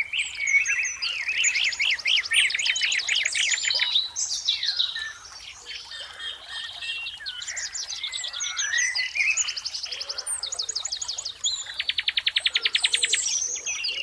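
Several songbirds chirping and singing at once, overlapping whistled notes and fast rattling trills; one rapid trill stands out near the end.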